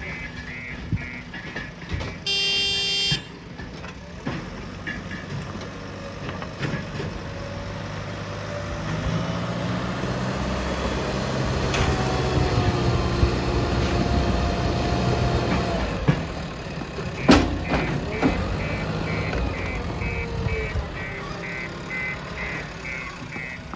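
JCB 3DX backhoe loader's diesel engine working under load, rising from about nine seconds in and easing off again around sixteen seconds. A reversing alarm beeps rapidly at the start and again through the last several seconds. There is a short horn toot about two seconds in and a single sharp clank near the three-quarter mark.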